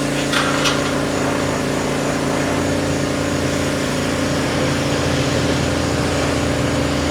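An engine idling steadily, with an even, unchanging hum.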